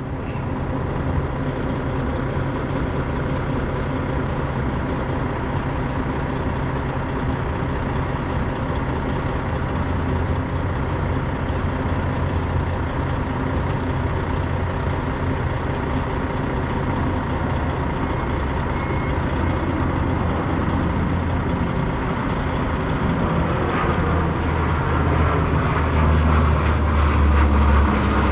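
A Freightliner semi's diesel engine idling steadily. In the last few seconds a low-flying C-130's propeller engines grow louder as the plane approaches.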